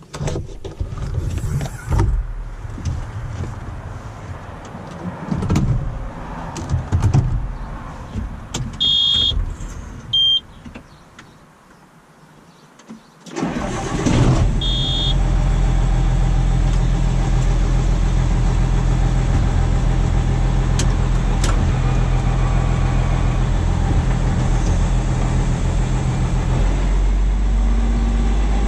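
Tractor being started: clunks and knocks of someone climbing aboard, a few short electronic beeps, then the engine starts about halfway through and runs steadily at idle, its low note changing near the end.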